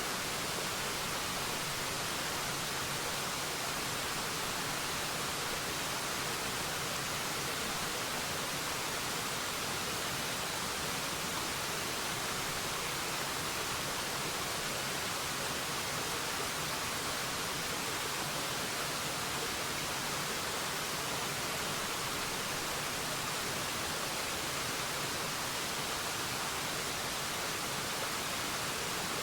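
Forest waterfall, water falling with a steady rushing hiss that stays even throughout.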